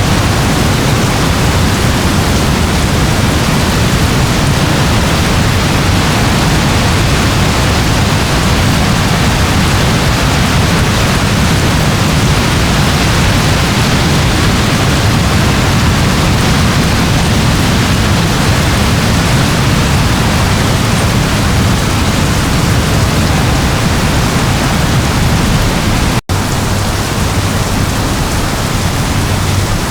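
Steady, dense rain: a continuous, even hiss with a low rumble underneath. It cuts out for an instant near the end and carries straight on.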